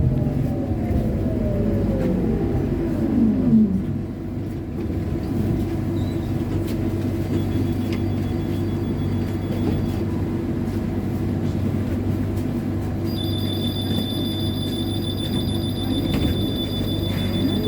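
Trolleybus heard from inside: the electric traction motor's whine falls in pitch as it slows, then a steady low electrical hum, and the whine rises again near the end as it pulls away. A high, steady electronic tone comes in about two-thirds of the way through.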